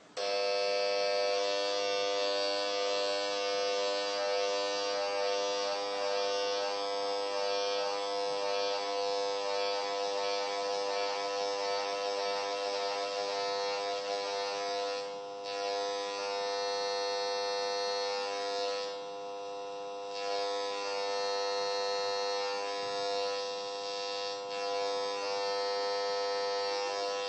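Microwave detector probe's built-in speaker giving a steady buzzing tone while it picks up microwaves. The tone dips in loudness and comes back a few times in the second half as the probe passes slowly through the nodes and antinodes of a standing wave.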